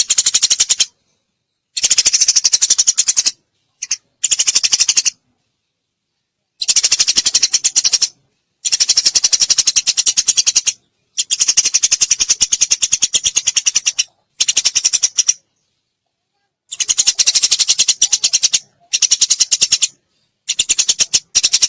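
Eurasian tree sparrow chattering: bouts of rapid, high chirps, many per second, each bout lasting one to three seconds and separated by short silent gaps.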